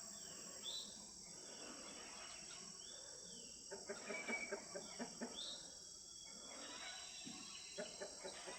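Steady high-pitched insect drone, with three short bird chirps a couple of seconds apart and scattered faint soft clucking from chickens.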